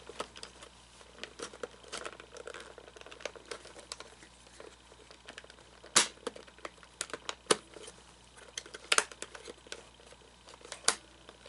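Hands working on a plastic animatronic figure's hip gear mechanism: scattered clicks, knocks and rustling, with a few sharper knocks about six, seven and a half, nine and eleven seconds in.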